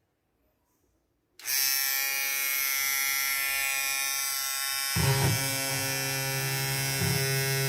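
Rechargeable electric shaver, converted to run from USB power, switched on about a second and a half in and running with a steady buzz; about five seconds in a deeper hum joins the buzz.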